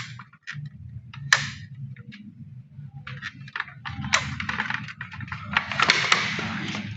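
Black+Decker box fan motor switched on but not spinning, giving a steady low hum while hair wound around its shaft binds it. Clicks and handling noises sound over the hum, growing into a louder rustling near the end.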